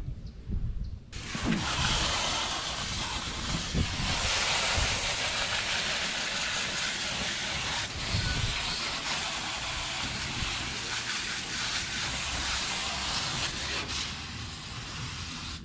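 Water spraying steadily onto a car's underside, a hiss that starts about a second in and holds almost to the end.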